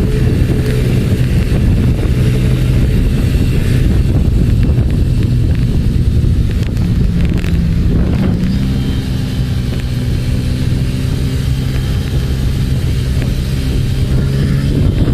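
Motorcycle engine running steadily on the road, with wind on the microphone; the engine note shifts about halfway through.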